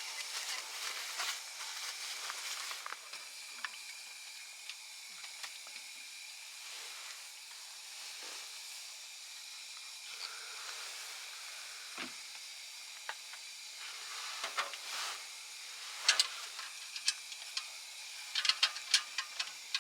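Wood fire burning with a steady hiss and scattered crackles and pops, which come more often near the end.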